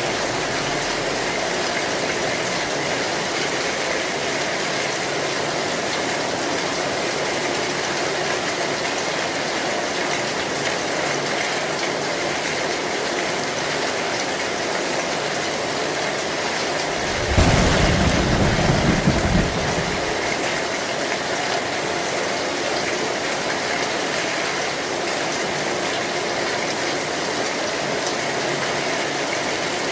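Heavy rain drumming steadily on a tin roof. About seventeen seconds in, a short, deep rumble of thunder lasts about two seconds.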